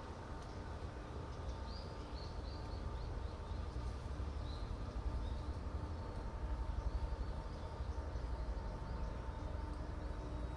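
Steady low rumble with a constant mechanical hum, over which a bird chirps several short, high notes in the first half.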